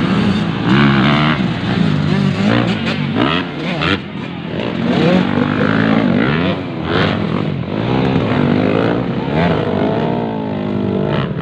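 Several motocross motorcycles racing together, their engines overlapping and revving up and down as they accelerate and shift.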